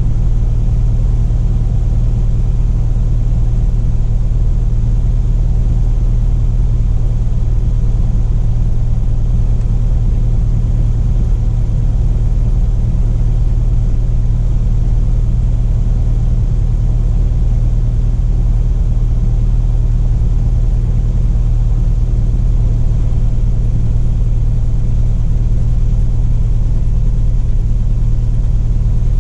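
Cessna Cardinal RG's four-cylinder Lycoming engine and propeller running steadily, a low even drone that neither rises nor falls.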